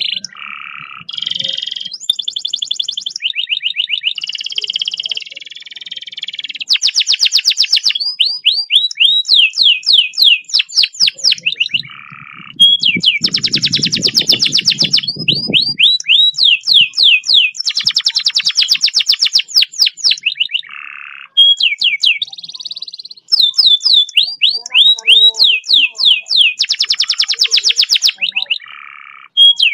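Domestic canary singing long, fast rolls: rapid trills and runs of quick downward-sweeping notes, several a second, in phrases broken by short pauses. About halfway through, a low rattle sounds beneath the trill for a few seconds.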